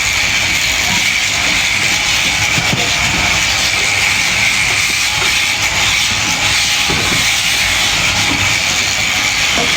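Electric sheep-shearing handpiece running steadily, a continuous hissing buzz with a steady high whine.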